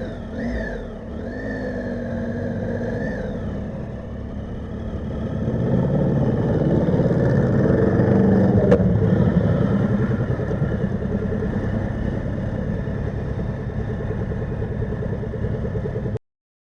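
Motorcycle engine running while riding, its pitch rising and falling with the throttle for the first few seconds, then growing louder about five seconds in. There is a single sharp click near the middle, and the sound cuts off suddenly near the end.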